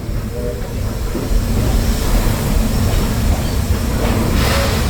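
Steam-train passenger car rolling along the track, a steady low rumble that grows louder about a second in, with a short hiss near the end.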